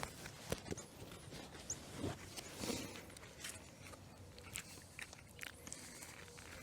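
Highland cattle grazing close by: faint, irregular crunching and tearing of grass as they bite and chew.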